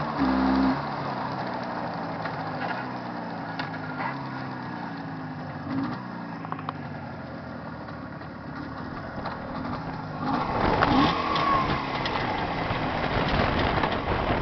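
Jawa 634 motorcycle's two-stroke twin engine running on the road during running-in. It is loud and steady at first, drops abruptly to a quieter, lower note under a second in, runs on with a slowly shifting pitch, and grows louder and rougher from about ten seconds in.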